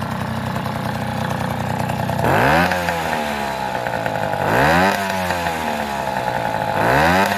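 Helkama Mini moped's 50cc two-stroke engine idling steadily and being revved up and back down three times, about two seconds apart.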